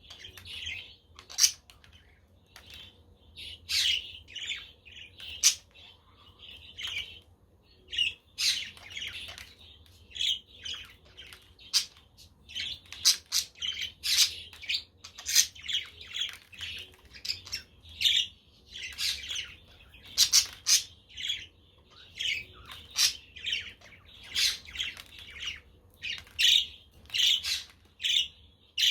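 A flock of budgerigars chirping and chattering, a busy stream of short, overlapping calls with frequent sharper, louder notes.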